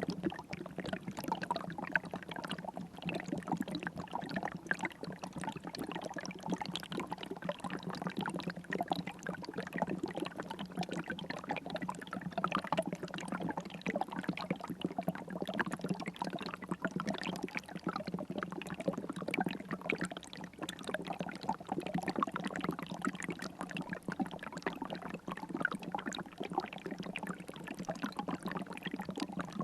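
River water flowing steadily, a continuous dense trickling and splashing with no pauses.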